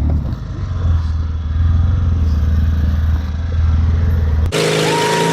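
Small engine running steadily at low speed. About four and a half seconds in, the sound switches abruptly to a loud hiss with a higher steady hum.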